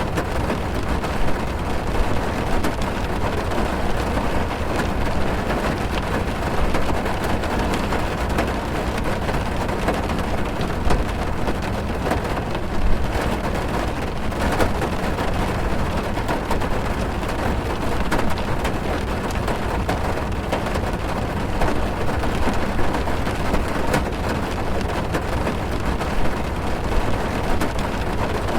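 Rain drumming steadily on a car's roof and windows, heard from inside the car: a dense patter of drops with occasional louder single hits.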